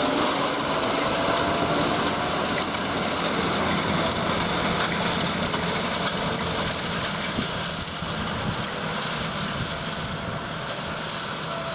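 Tractor engine running steadily, slowly getting quieter.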